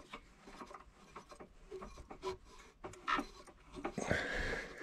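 Faint, scattered mechanical clicks and rubbing from hands and tools working at a Trabant's engine, with a short scraping rub about four seconds in.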